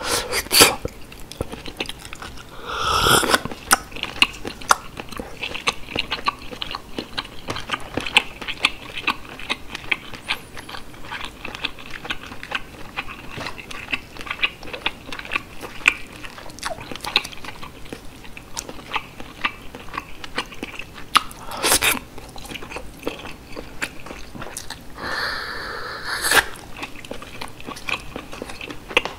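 Close-miked chewing of steamed whole sea snail (whelk) meat: a dense run of small wet clicks and mouth sounds. A few louder, longer bursts come about three seconds in and again near the end.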